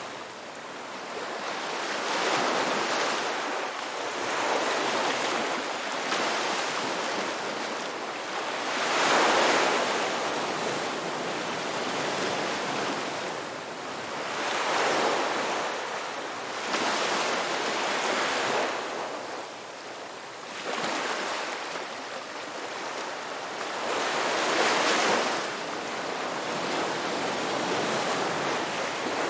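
Ocean waves breaking and washing up the beach, a continuous hiss of surf that swells and eases every few seconds, with the loudest surges about a third of the way in and near the end.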